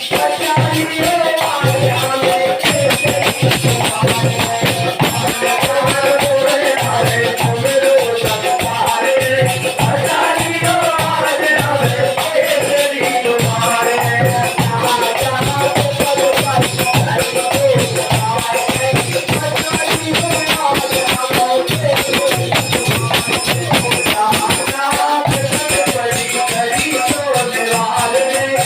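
Devotional kirtan song: a voice singing a wavering melody over a steady, fast beat of hand percussion.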